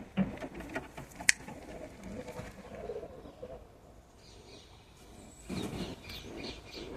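Pigeons cooing softly, with a few sharp clicks in the first second or so and short high chirps later on.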